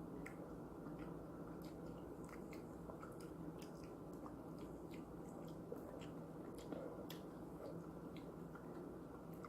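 Faint wet chewing of juicy pineapple slices, with many small mouth clicks and smacks scattered throughout, over a steady low hum.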